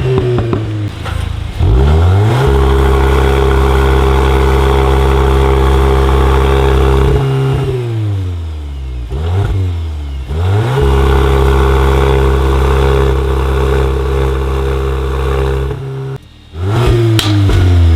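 Volkswagen Golf R's turbocharged 2.0-litre four-cylinder engine revved up and held at a steady high rpm for several seconds, then dropping back. It is revved up again to a second long steady hold that cuts off sharply near the end, then revs up once more.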